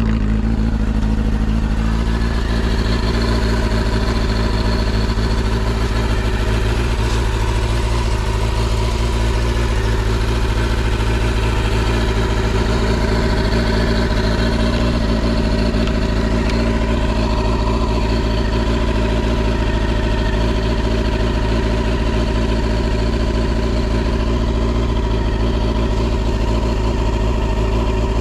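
Honda CB400SF VTEC Spec1's inline-four engine idling steadily through a WR's aftermarket exhaust. It runs smoothly with no abnormal noises.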